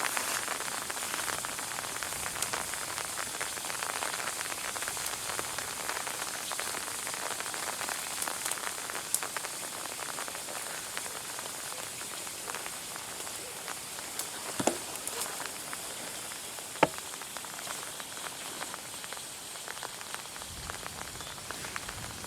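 Steady rain falling, a dense patter of drops, with two louder single drips a little after the middle.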